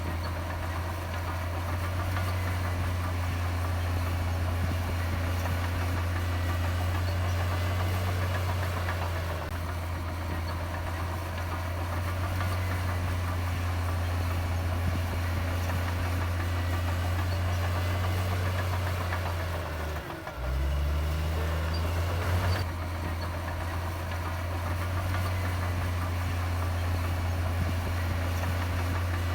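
Heavy diesel engine running steadily with a low hum. About twenty seconds in it briefly drops, then its note shifts and rises back.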